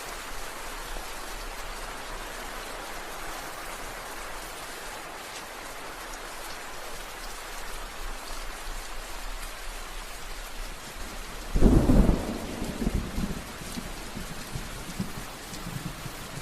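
Steady rain falling, then a loud crack of thunder about eleven seconds in that rumbles on in fading rolls to the end.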